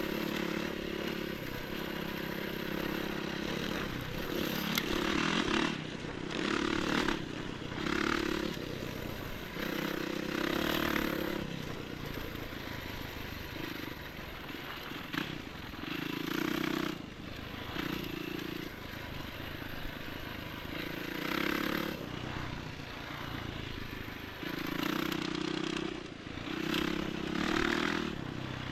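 Enduro motorcycle engine running, revving up and easing off again and again in short bursts of a second or two as the throttle is worked.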